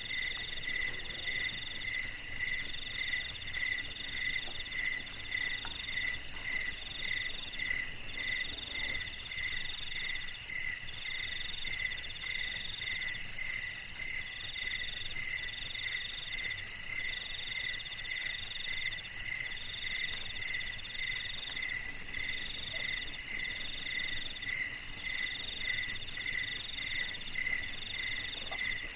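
Night chorus of crickets and other insects chirping in overlapping steady rhythms: a high pulsing trill, a lower chirp about twice a second, and a mid-pitched trill in phrases about a second long.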